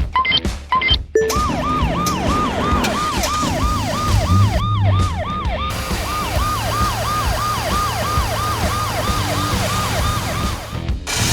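Emergency-vehicle siren sounding in a fast up-and-down yelp, about three sweeps a second, over a low steady hum. It starts about a second in, after a few short musical notes, and cuts off shortly before the end.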